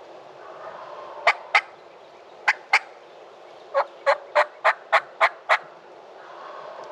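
Turkey yelping: two pairs of short, sharp notes, then a run of seven evenly spaced notes about three a second.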